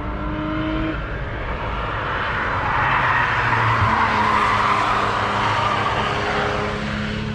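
Cars going through a corner: engines running, one rising in pitch at the start, and tyres squealing loudest in the middle, then easing off.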